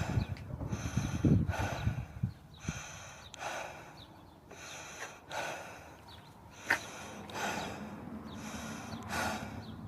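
A woman breathing hard, with heavy breaths in and out about once a second: winded and exhausted from hours of yard work.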